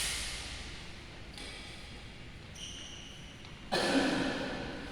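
Badminton play in an echoing sports hall: a sharp racket strike on the shuttlecock at the start, then brief high squeaks of shoes on the court floor, and a louder burst of sound near the end.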